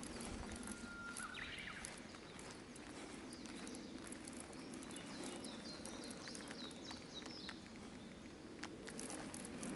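Quiet lakeside ambience: faint bird calls from the wooded bank in the middle, a brief whistled note about a second in, and scattered small ticks and taps over a low steady hum.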